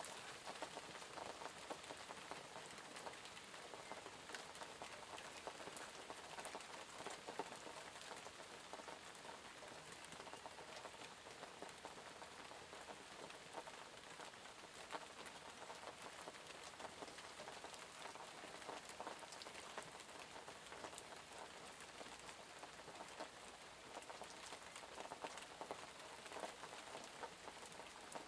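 Steady rain falling on a surface: a constant hiss dotted with many small drop ticks.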